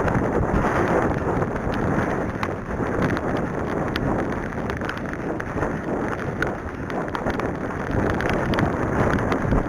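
Wind buffeting the microphone in a steady rush, with scattered sharp ticks throughout.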